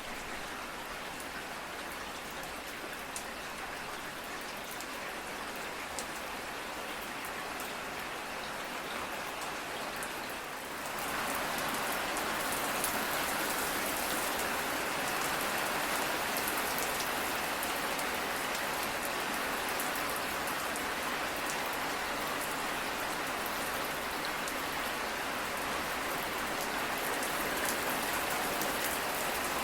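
Steady rain falling on a surface, with scattered fine drop ticks. About eleven seconds in it turns suddenly louder and fuller, then stays even.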